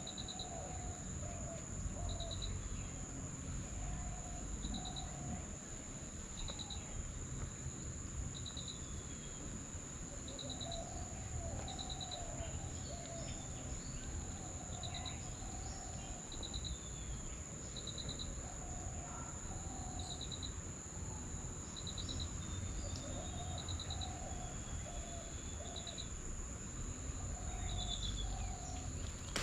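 Outdoor insect and bird chorus: a steady high insect drone, with short pulsed cricket-like chirps repeating every second or two. Scattered short, lower bird calls and a constant low rumble lie beneath.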